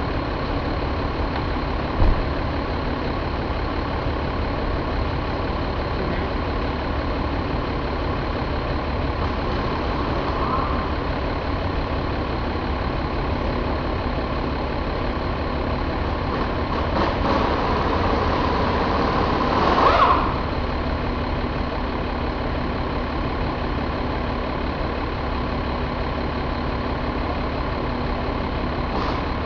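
Mercedes MBE926 inline-six diesel engine running steadily at idle. There is a short thump about two seconds in, and a swell in level that drops off suddenly about twenty seconds in.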